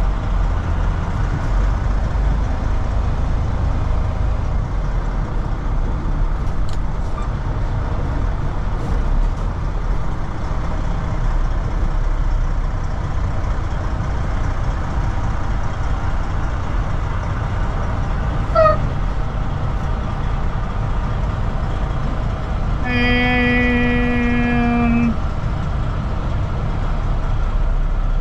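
Semi truck's diesel engine running, a steady low rumble heard from inside the cab. About two-thirds of the way through there is a short chirp, and later a steady horn-like tone lasting about two seconds.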